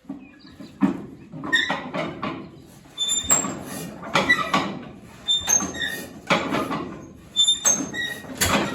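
The 1937 Massey Harris 25's engine being turned over to start: a run of irregular strokes, about one a second, each with a metallic squeak.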